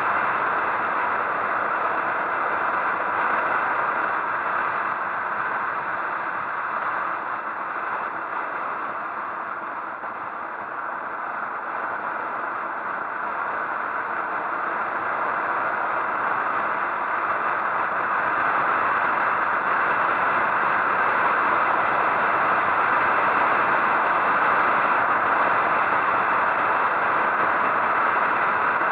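Steady rushing noise of a motorcycle ride, wind and road noise on the bike's microphone with the engine underneath. It eases a little around ten seconds in and builds again from about eighteen seconds.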